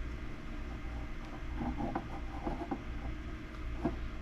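Faint small clicks and rubbing from hands turning a chicken egg against a candling light, over a steady low hum.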